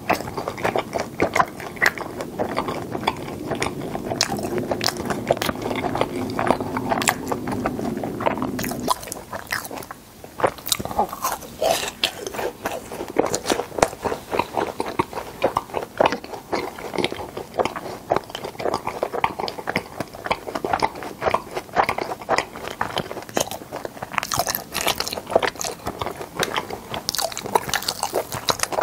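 Close-miked crunchy chewing of fried cheese balls in a creamy white sauce: many crisp crackling crunches mixed with wet mouth sounds. A low hum lies under the first nine seconds or so, then stops.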